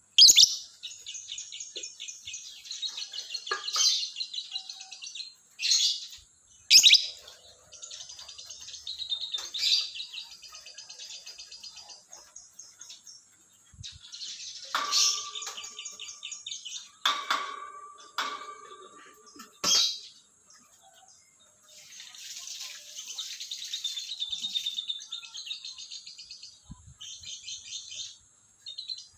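Lovebird chattering: long runs of fast, high-pitched trilling, broken by a handful of sharp, loud squawks.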